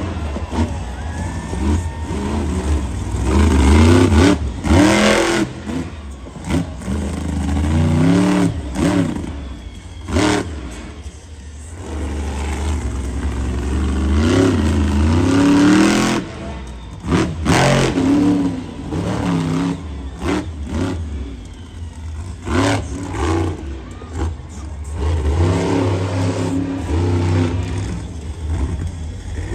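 Monster truck engine revving hard, its pitch rising and falling again and again, with several sudden loud bursts.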